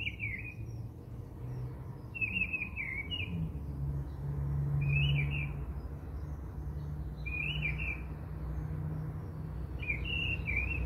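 A bird chirping in short, quick phrases about every two to three seconds, over a low steady hum.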